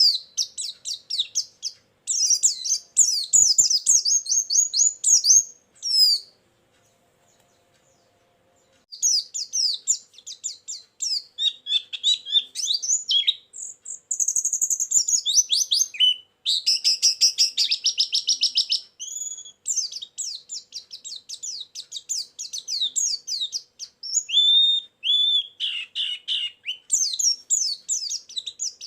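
Pleci (white-eye) song: fast, high chirping runs and trills, broken by a pause of about three seconds around six seconds in.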